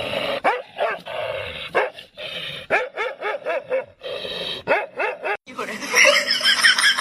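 A dog barking and yipping in many short, quick barks. Near the end this gives way to rapid high-pitched chirping over a steady hum.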